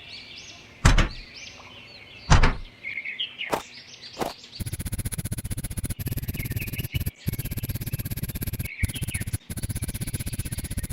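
Birds chirping, with two sharp knocks in the first few seconds, then about halfway in a small electric motor starts a fast buzzing rattle with a steady high whine, broken by a few abrupt short gaps.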